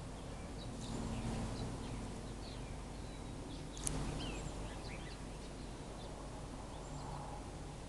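Small birds chirping and calling on and off over a steady low rumble, with one sharp click about four seconds in.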